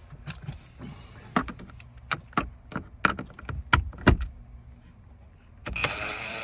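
A string of irregular sharp clicks and knocks as the bit is worked onto a Torx screw in the plastic dash trim. Then, about two-thirds of the way in, a cordless screw gun starts running with a steady whir, backing the screw out.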